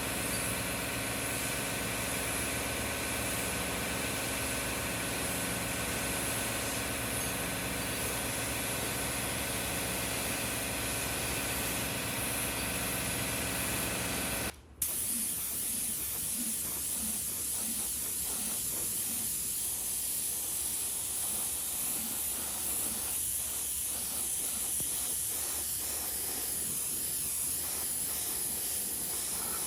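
A machine running with a steady hum, cut off abruptly about halfway through, followed by a steady hiss.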